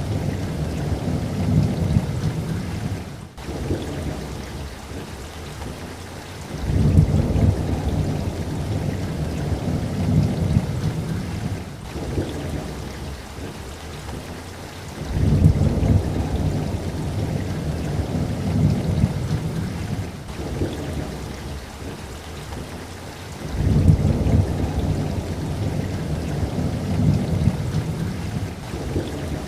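Steady rain with rolling thunder: deep rumbles swell up about 7, 15 and 24 seconds in, each building and then fading over several seconds, with another fading away at the start.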